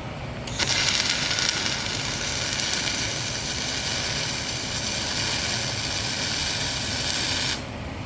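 Arc welding on steel plate: one continuous weld run with an even, crackling sizzle that starts about half a second in and cuts off abruptly near the end, tacking a corner tip onto a dozer blade.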